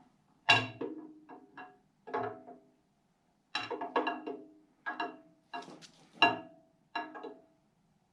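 Steel camshaft from a 1950 Cadillac 331 V8 clunking and clinking against the engine block and cam bearings as it is worked out by hand. The knocks are irregular, each with a brief metallic ring.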